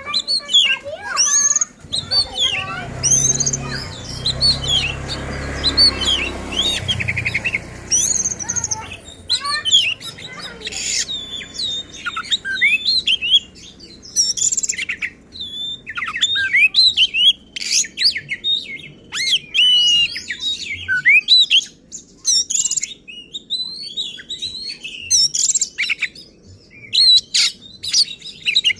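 Oriental magpie-robin (kacer) singing hard and fast: a dense, unbroken run of varied whistles, trills and harsh chattering notes, with imitated phrases of other birds mixed in. A low hum sits under the song from about two to eight seconds in.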